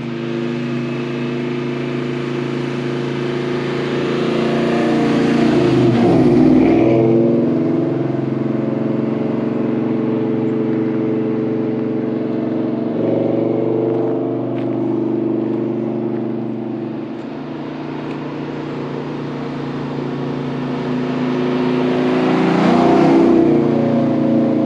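Modular V8 Mustang with aftermarket long-tube headers and loud exhaust driving past, its pitch dipping as it passes about six seconds in and again near the end. The engine note holds steady between the passes.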